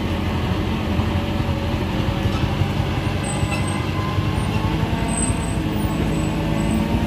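Diesel engine of a Mitsubishi engkel light truck running steadily, a dense low rumble with a steady hum that holds even throughout.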